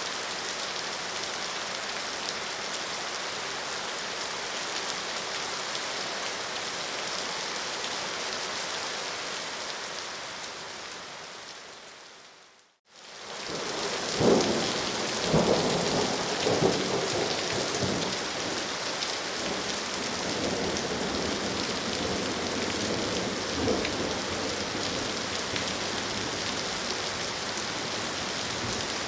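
Steady rain falling, which fades away to silence a little before halfway through. Rain then starts up again with several low rolls of thunder, loudest just after it returns and once more later on.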